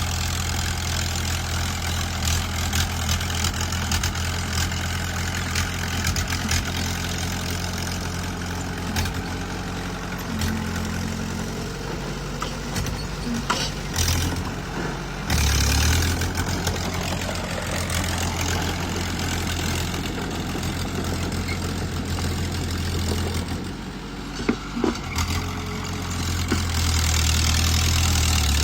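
Small bulldozer's diesel engine running steadily, its level shifting as the machine works, with scattered sharp metallic knocks; it grows louder near the end.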